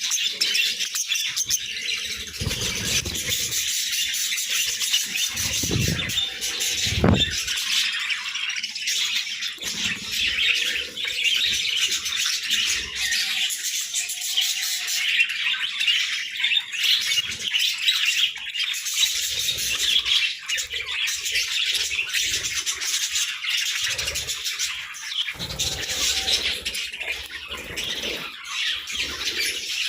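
A flock of pet budgerigars chattering, chirping and squawking nonstop, with a few low thuds and flutters mixed in.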